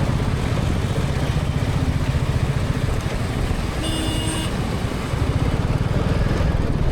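Motorcycle engine running steadily under way, with road noise, and a short horn beep from traffic about four seconds in.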